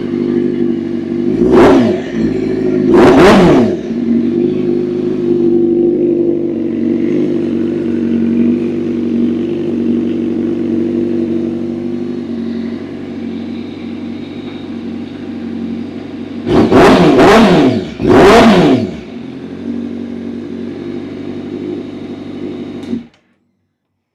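2023 Honda CBR1000RR-R Fireblade's inline-four engine, breathing through an Arrow slip-on exhaust, idling loud and blipped in two quick pairs of sharp revs, once near the start and again about 17 seconds in. The engine is switched off and cuts out suddenly near the end.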